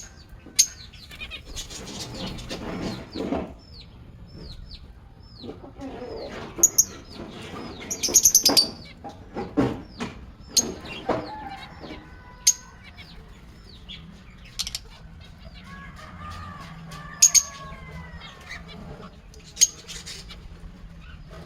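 Lovebirds chirping and calling: a run of short, high, falling chirps broken by sharp, loud squawks every few seconds, with some lower, rougher calls among them.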